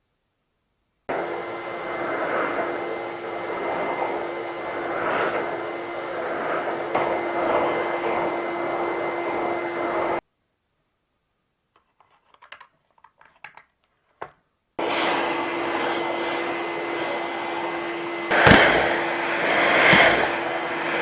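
VAX V-020 multifunction vacuum cleaner's motor switched on about a second in and running with a steady hum. It cuts off suddenly around ten seconds in, leaving a few seconds of light clicks and rattles. It then starts again and runs on, with two sharp knocks near the end.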